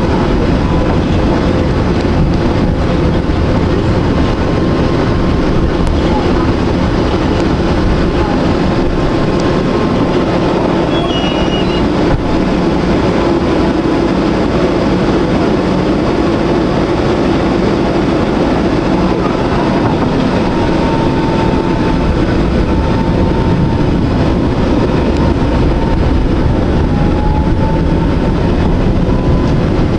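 Electric tram running along its track: a steady rumble of wheels on rail and motor, with a faint whine that wavers slightly in pitch in the second half.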